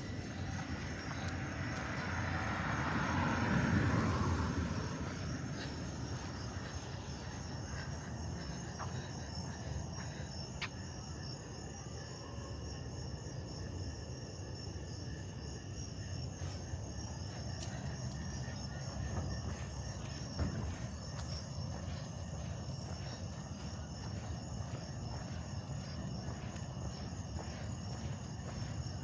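Crickets and other night insects chirping in a steady chorus, several high tones held without a break.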